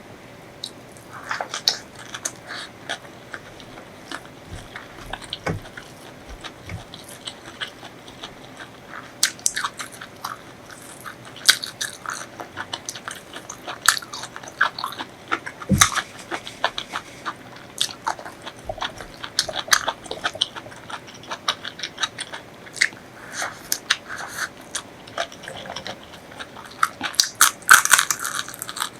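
Close-miked eating: a person biting and chewing crunchy food, with many short, sharp crunches and crackles that come thickest and loudest near the end.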